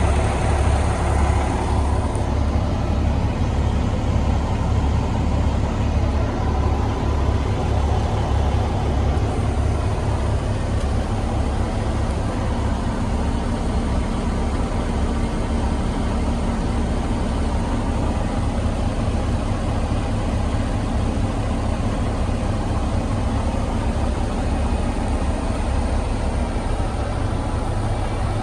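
Cummins X15 diesel engine of an International HX620 truck idling steadily, a deep even rumble.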